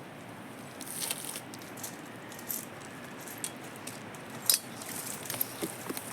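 Scattered small clicks and clinks over a faint steady hiss, with one sharper click about four and a half seconds in.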